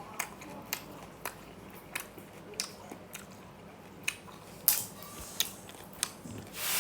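A person biting and chewing something crisp: a string of short, sharp crunches at an uneven pace.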